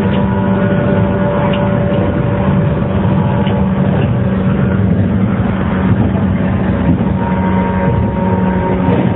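JR 115-series electric train car KuMoHa 115-1536 running at speed under its DC traction motors: a steady motor hum of several held tones over the rumble of the wheels on the rails.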